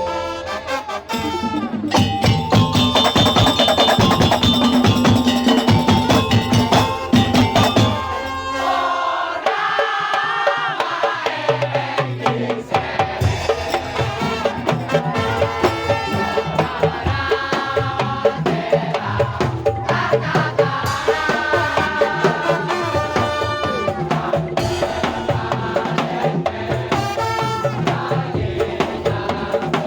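Madurese daul (tong-tong) ensemble playing: a dense, steady rhythm of wooden slit drums and drums under melodic instruments. The texture shifts about eight or nine seconds in, then the rhythm carries on.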